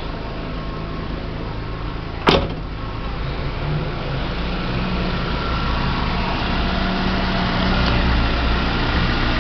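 Chevrolet Vectra 2.0 engine idling steadily and quietly on a newly replaced water pump, without the worn pump's noise. One sharp click a little over two seconds in, and the engine grows slightly louder towards the end.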